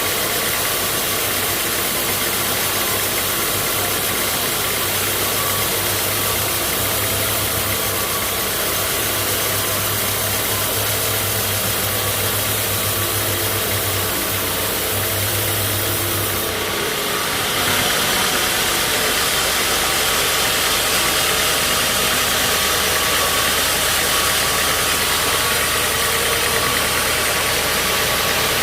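An engine running steadily under a dense, continuous machine noise. About two-thirds of the way through, the sound changes abruptly to a different steady hum with a brighter, hissier top.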